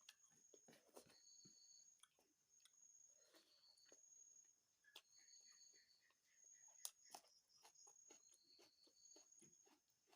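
Faint, close chewing of chicken curry and rice, with irregular wet mouth clicks and smacks.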